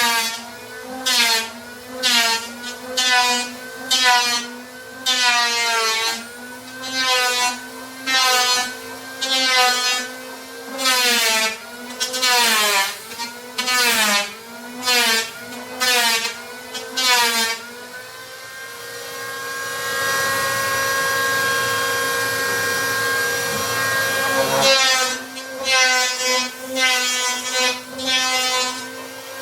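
Plywood being worked by hand with rhythmic back-and-forth strokes, about one a second, each stroke squeaking with a rising-and-falling pitch. The strokes stop for several seconds about two-thirds of the way through while a steady humming tone carries on, then resume.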